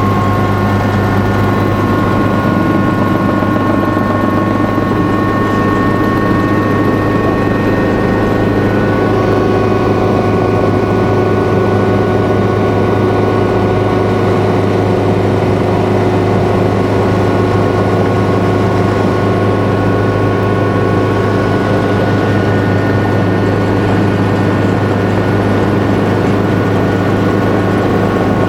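Helicopter hovering overhead: a loud, steady drone with a constant high engine whine that holds level throughout.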